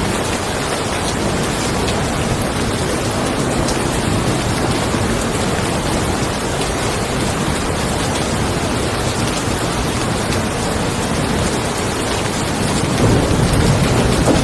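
Steady rain falling, with a low thunder rumble building near the end.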